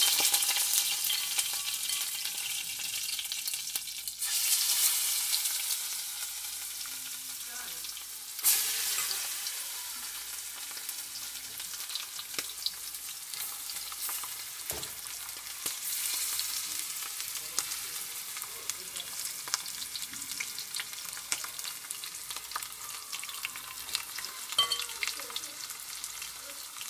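Marinated chicken liver frying in hot oil in a stainless steel pan, a dense sizzle that surges as more pieces go in, about 4 and 8 seconds in, and then slowly settles. Scattered clicks of stirring and scraping against the pan run through it.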